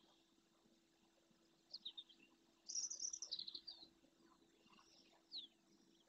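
Wild birds calling: a few short, high, falling notes, then a brief burst of high-pitched twittering about three seconds in, and another falling note near the end, against near silence.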